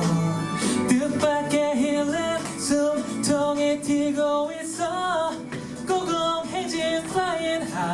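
K-pop song playing, with female singing over the backing track.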